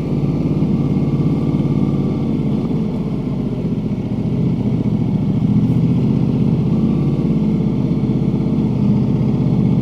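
Ducati Multistrada 1200 Enduro's V-twin engine running at a steady pace, with no revving or gear changes.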